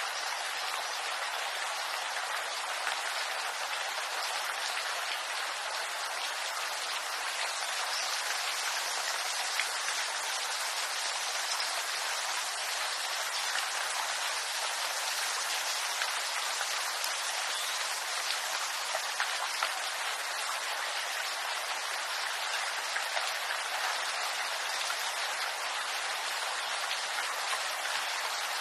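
Steady rain falling on bamboo leaves: an even hiss of countless small drop hits that keeps up without a break.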